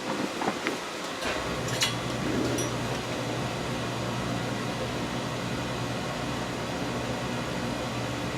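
A few light clicks and knocks, then a steady low machine hum with a faint hiss that sets in about a second in.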